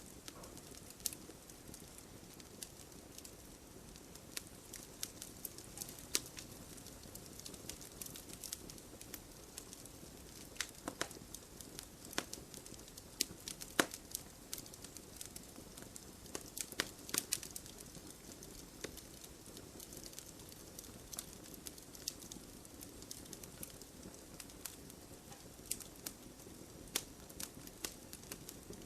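Wood fire burning, crackling with frequent sharp irregular pops over a low steady rush of flame.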